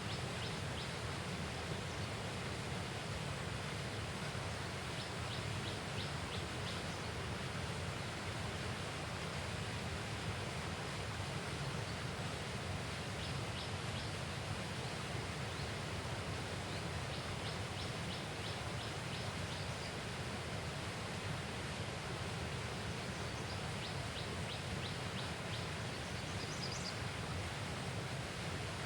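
Steady outdoor rushing noise, with short runs of rapid, high-pitched chirps every few seconds.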